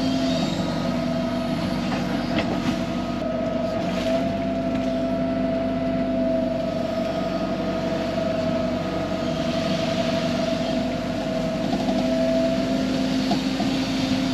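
Excavator engine running steadily under work, with a constant droning tone.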